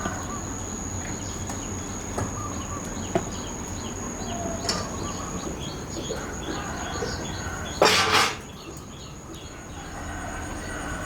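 Outdoor ambience: birds chirping over a steady, high, insect-like drone, with a few sharp clicks. About eight seconds in comes one loud, noisy burst lasting about half a second.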